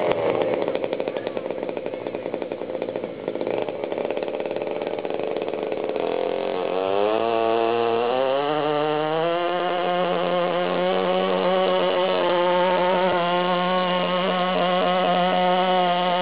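Small engine of a 1/5-scale radio-controlled pulling tractor running rough, then revving up about six seconds in and holding a steady high pitch.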